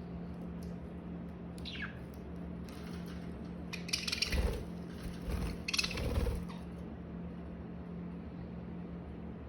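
Pet budgie giving a single short falling chirp, then two brief rustling bursts, over a steady low hum.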